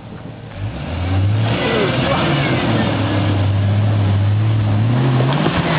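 Jeep Wrangler engine revving under load as it climbs a rutted dirt track; it comes up loud about a second in, holds a steady pitch, then rises near the end.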